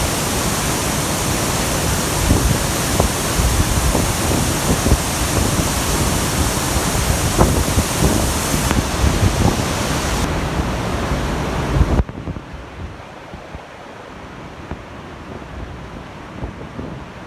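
Waterfall in heavy flow after rain, a loud steady rushing of falling water with low buffeting in the microphone. About twelve seconds in it drops suddenly to a much quieter rushing.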